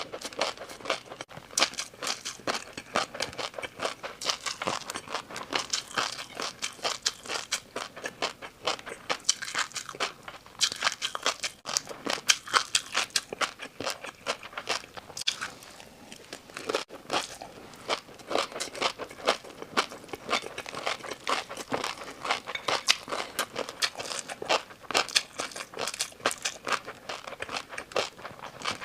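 Close-miked crunching and chewing of crisp food, a dense run of sharp crackling crunches with brief pauses.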